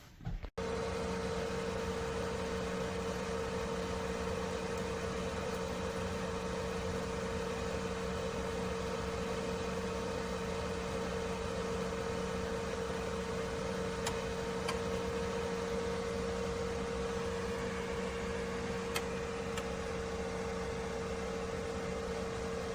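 Countertop air fryer toaster oven running: a steady fan hum with a constant mid-pitched tone, and a few faint ticks in the second half.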